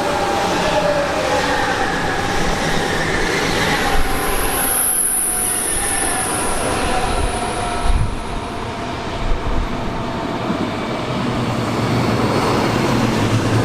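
A train running past, with a loud high-pitched squeal about four seconds in that lasts about three seconds. A few short knocks follow around eight and nine seconds.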